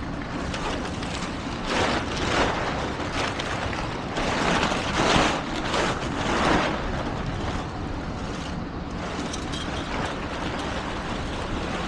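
Steady vehicle rumble mixed with wind noise on the microphone, swelling louder a few times.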